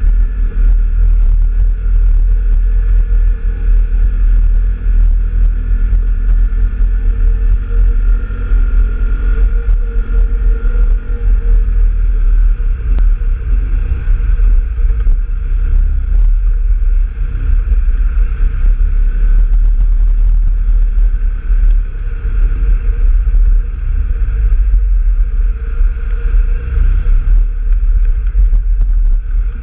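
Engine of an off-road trail vehicle running steadily while riding, over a heavy low rumble.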